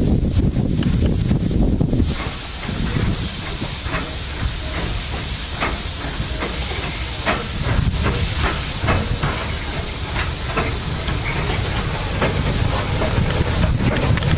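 Steam locomotive giving off a steady high hiss of steam over a low rumble. A run of irregular sharp clicks and clanks sounds through the middle.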